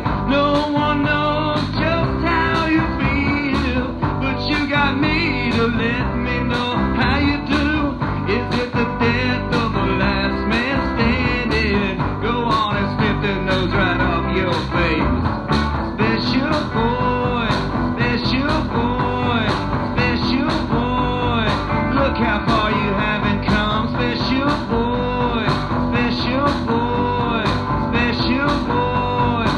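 Rock song played by a full band: drums keep a steady beat, about two strokes a second, under guitar, with melodic lines bending up and down in pitch.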